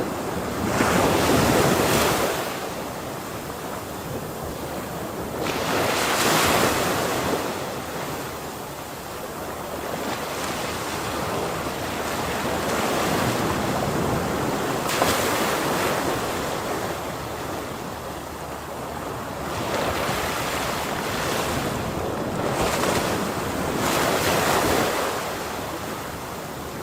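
Ocean surf breaking and washing ashore, a steady rushing noise that swells with each wave several times and then eases back.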